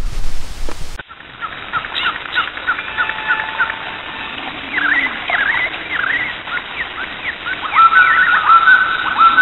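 Birds calling: many short chirps and quick up-and-down whistled notes, turning to a rapid run of repeated flat notes near the end. Before them, a second of steady hiss cuts off abruptly.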